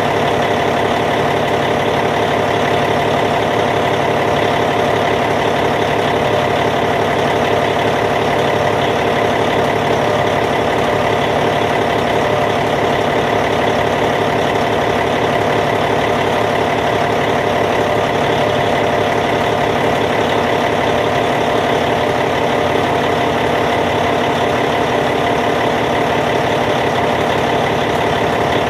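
Caterpillar C15 diesel engine of a D8T bulldozer idling, a steady even running sound with no change in speed.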